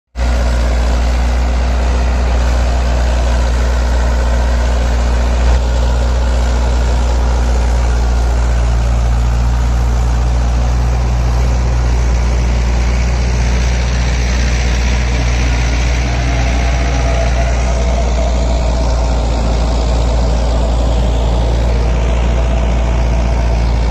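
Tractor diesel engine running steadily with a deep, even drone, holding a constant pitch.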